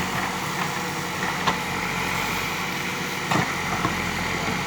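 JCB backhoe loader's diesel engine running steadily, with a couple of sharp knocks about one and a half and three and a half seconds in.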